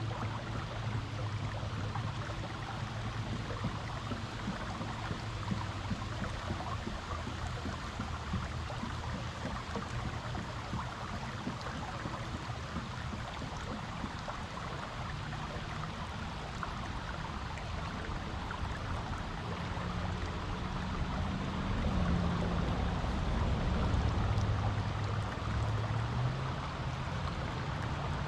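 Creek water flowing over rocks with a steady rushing and splashing, and a faint low hum underneath that swells a little after about twenty seconds.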